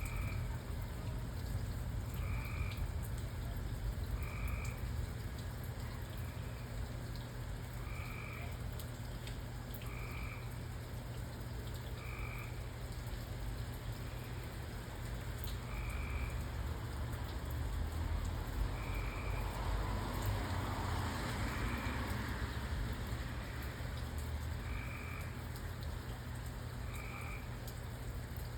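A frog calling at night in short, repeated croaks, roughly one every two seconds, over a steady low rumble.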